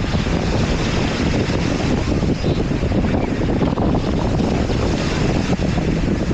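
Wind buffeting the microphone over steady ocean surf, a continuous rumbling rush with no distinct breaks.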